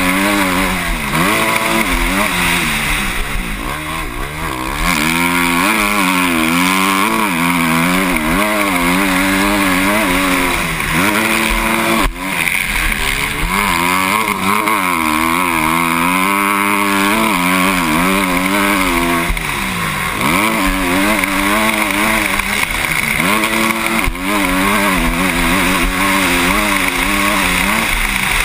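Motocross bike engine heard from the rider's helmet during a race, revving up and down over and over as the throttle opens and closes, with short drops in pitch now and then.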